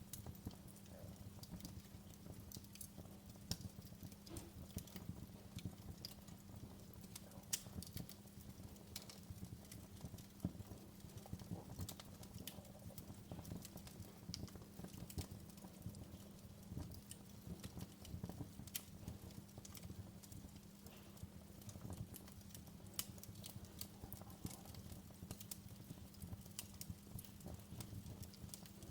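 Wood fire crackling in a fireplace: irregular sharp pops and snaps over a low, steady hum.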